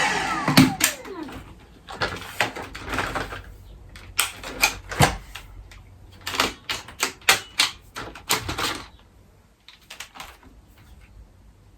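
Plastic parts of a Dyson V6 cordless vacuum being handled, a run of irregular clicks and knocks. At the very start the motorised floor head's brush bar winds down after a test run.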